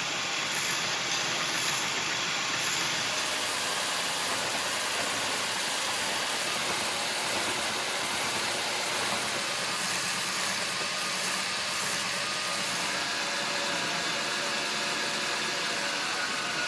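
An electric grinder running steadily while grinding a carbon steel knife blade, an even hiss with a faint steady hum that holds at one level throughout.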